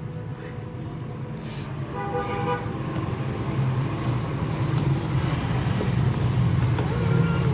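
A motor vehicle's engine running and getting steadily louder, with a short pitched horn-like tone about two seconds in.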